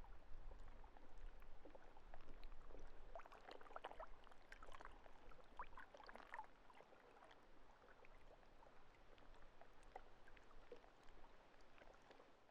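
Faint lake water lapping and trickling, a scatter of small gurgles and splashes, fading out near the end.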